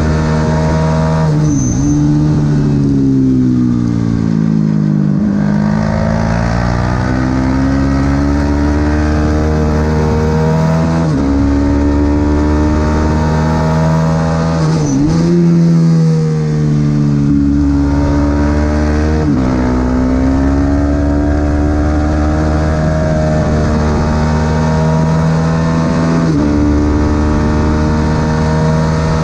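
Supersport 300 racing motorcycle engine under hard acceleration, its pitch climbing and dropping sharply at each upshift. Near the start the pitch slides down for a few seconds as it slows for a corner.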